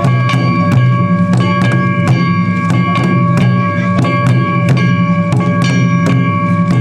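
Japanese festival percussion for a shishimai lion dance: evenly spaced strikes, about three a second, over a steady held ringing tone and a deep drum body.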